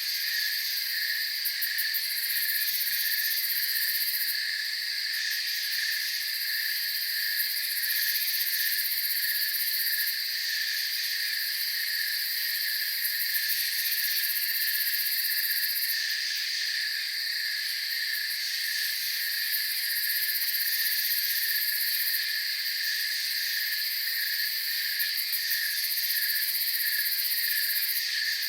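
Night chorus of crickets and other insects: continuous chirping and trilling at several pitches at once, one layer pulsing rapidly, with a very high-pitched layer that swells and fades every few seconds.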